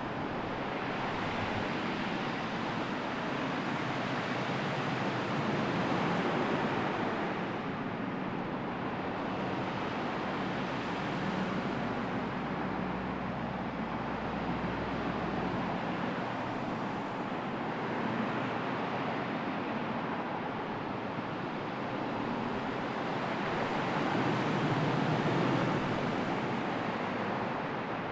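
Sea waves washing in a steady rush, swelling gently now and then.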